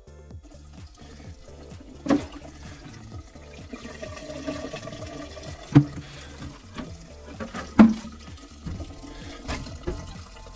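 Water running, with a few sharp knocks about two, six and eight seconds in.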